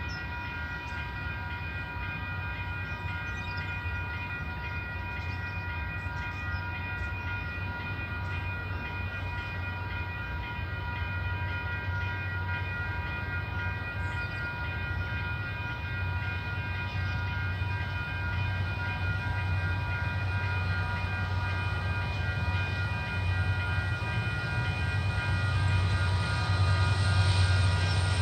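KiwiRail freight train's diesel locomotive approaching: a low, steady engine rumble that grows gradually louder as it nears, with several steady high tones held underneath.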